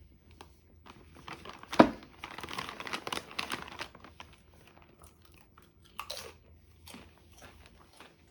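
Snack packaging crinkling and rustling as it is handled and opened, with a sharp click a little under two seconds in, then scattered small clicks and a brief rustle about six seconds in.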